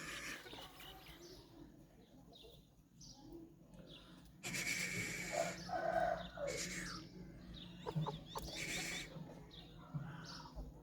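Aseel chickens clucking, with many short high chirps, and a stretch of rustling noise in the middle that is the loudest part.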